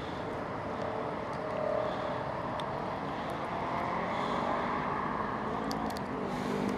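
Steady hum of distant road traffic, cars running past without a break.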